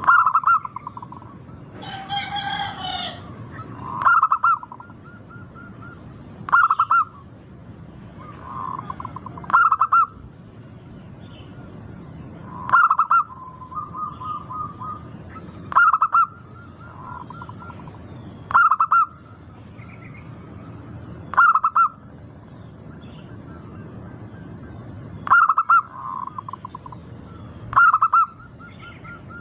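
Zebra dove (perkutut) cooing, a short call repeated about every three seconds, some calls trailing off in a run of quick notes. A different, higher bird call sounds once about two seconds in, over a steady low background noise.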